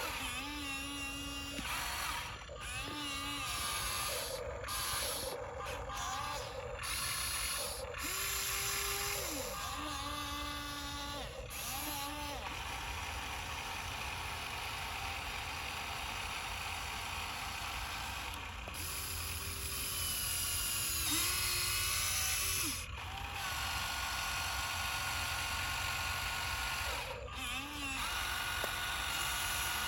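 Electric drive motors and gearboxes of an RC dump truck whining. The pitch rises and falls as the truck speeds up and slows, in short stop-start runs at first, then a longer steady run.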